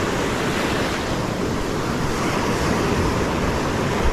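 Steady rush of ocean surf breaking on the shore, with wind buffeting the microphone.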